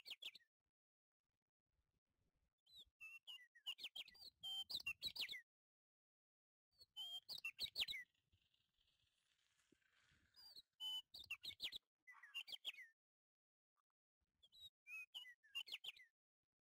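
A bird chirping in five short bursts of quick, high chirps, with silence between the bursts.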